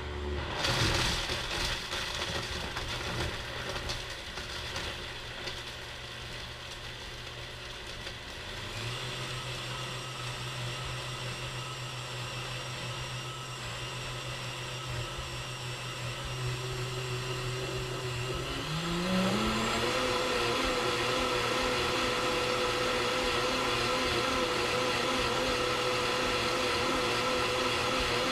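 Vitamix S55 personal blender running its Power Blend program on ice, frozen kale and other solids: the motor starts with a rough chopping noise, steps up in speed about nine seconds in, then ramps quickly to a higher, louder speed a little after halfway and holds there.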